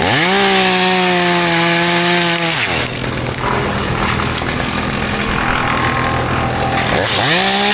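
Two-stroke chainsaw revved to full throttle for about two and a half seconds, dropping back to idle, then revved up again near the end.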